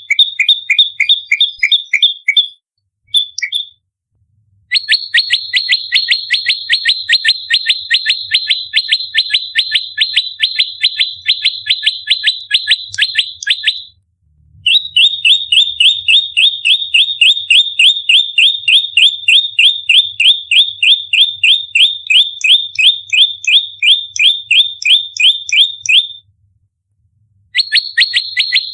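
Prenjak lumut songbird giving its fighting call: long runs of rapid, evenly spaced sharp chirps, about four to five a second, broken by short pauses. This is the dense 'shooting' call of a bird in a territorial fight, used as a lure call.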